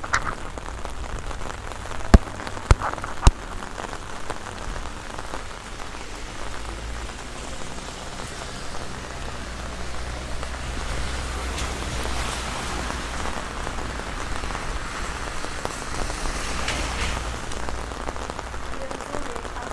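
Heavy rain falling steadily, drumming on an open umbrella overhead. Three sharp knocks stand out about two to three seconds in.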